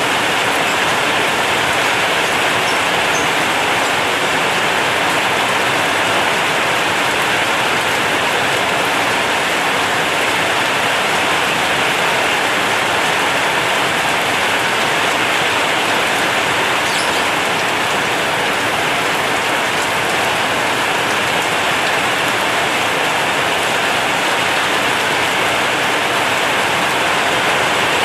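Heavy rain on a zinc roof: a dense, steady patter of drops on corrugated metal sheeting, with strong wind.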